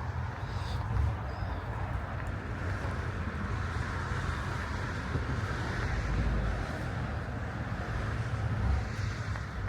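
Wind buffeting the microphone: a steady, uneven low rumble with a windy hiss over it.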